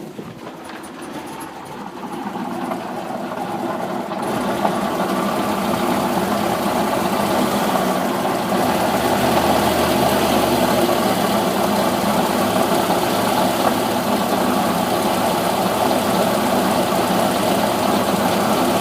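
Cold car engine running with a knocking, held on the throttle because it won't idle cold. It grows louder over the first few seconds, then runs steadily.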